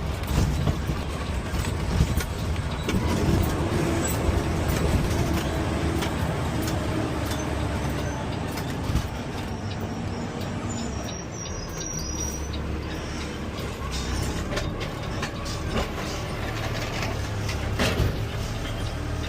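Peterbilt 520 CNG automated side-loader garbage truck running, heard from the driver's cab: a steady low rumble with scattered clicks and knocks.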